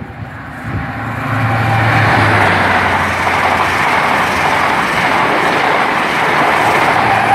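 InterCity 125 High Speed Train with Class 43 diesel power cars passing through the station at speed. A loud, steady rushing noise builds about a second in, with the low, steady hum of a power car's diesel engine underneath.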